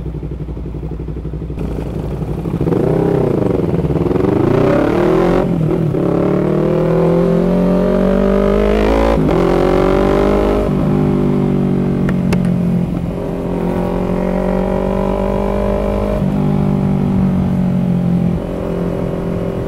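Yamaha MT-03 parallel-twin engine with an aftermarket tall-canister muffler, fairly loud. It idles, then pulls away, revving up and dropping back at each of several upshifts before settling to a steady cruise, with the throttle eased twice near the end.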